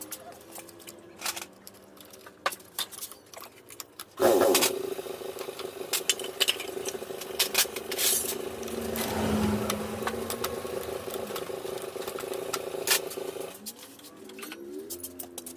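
Metal clinks of hand tools on engine parts. About four seconds in, a steady motor sound with a held tone starts suddenly and runs for about nine seconds before stopping, with more clinks after it.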